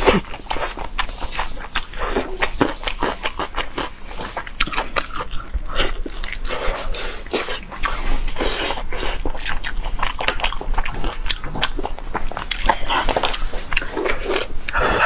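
Close-miked chewing of fatty braised meat: a steady run of wet smacks and sticky mouth clicks.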